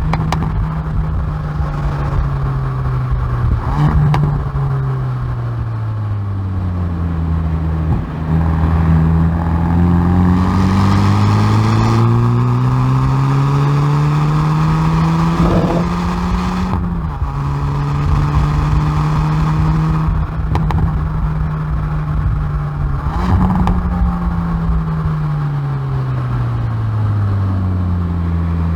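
Hyundai i30N Performance's turbocharged 2.0-litre four-cylinder exhaust, recorded at the rear bumper on track. The pitch falls as the car slows, then climbs steadily under acceleration. About two-thirds of the way through it drops sharply at an upshift, then rises and falls again.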